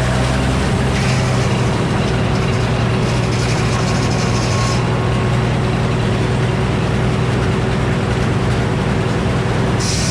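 Frick sawmill running, a steady engine drone with mill noise. A hiss over the top thins out about halfway through and returns near the end.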